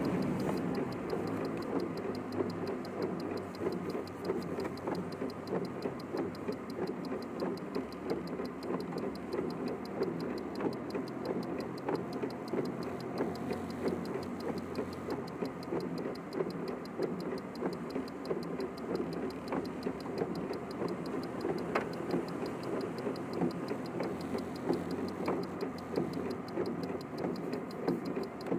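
Inside a car's cabin, sped up to double speed: a steady engine and cabin hum, much quieter than moving traffic noise, with a fast, regular ticking throughout.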